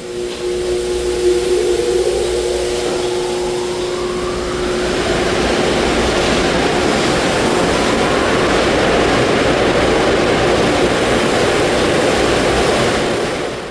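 Automatic car wash dryer blowers spinning up: a whine rises over the first few seconds into a loud, steady rush of air, then cuts off abruptly.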